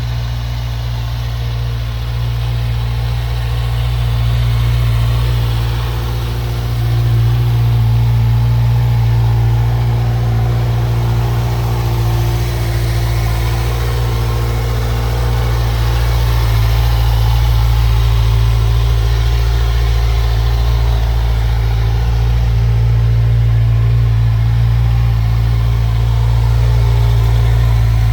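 Kawasaki Z1000SX's inline-four engine idling steadily, with a low, even hum and only small rises in level.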